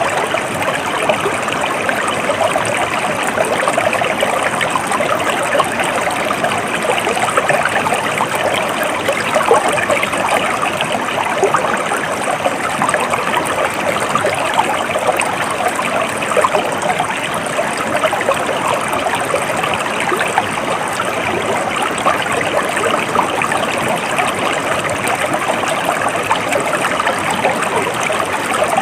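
Water of a small stream flowing steadily over rocks, a continuous trickling and splashing rush.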